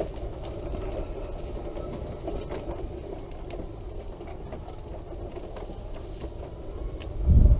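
Wheelchair rolling along a lane: a steady drone with low rumble from the wheels. Near the end comes a brief loud low thump, like a bump or a gust on the microphone.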